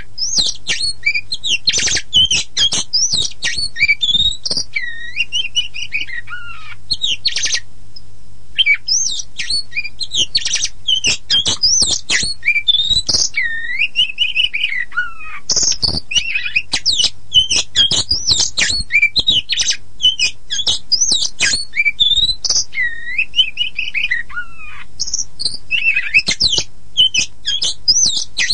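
Oriental magpie-robin (kacer poci) singing a varied, loud song of clear whistles, downslurred notes and rapid harsh chattering, with a short break about seven seconds in.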